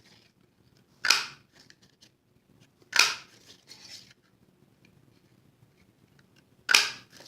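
Handheld 1-inch circle paper punch cutting circles out of cardstock: three short, sharp clacks, about two seconds apart and then a longer pause before the last.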